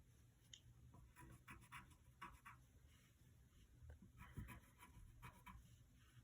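Faint scratching of a pen on paper: quick back-and-forth colouring strokes as letters are coloured in yellow, in two short spells.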